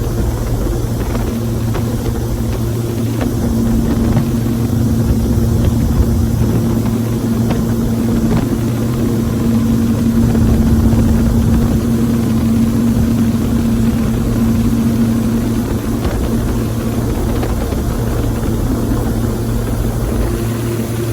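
Jet-drive boat's engine running steadily under way, a constant loud drone. A slightly higher tone comes up about four seconds in and fades again around sixteen seconds.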